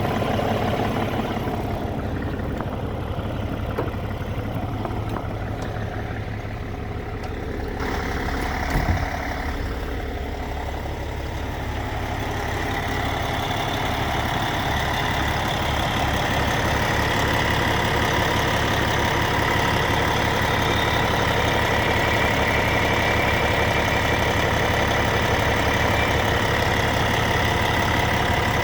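Cummins ISX 550 diesel engine of a Western Star 4900SA truck idling steadily, with a single thump about nine seconds in. The engine grows louder from about twelve seconds on.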